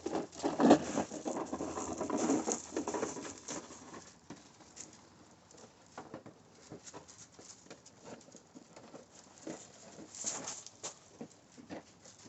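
Puppies playing on wet ground: irregular pattering and scuffling, busy for the first three or four seconds, then thinning to scattered light taps.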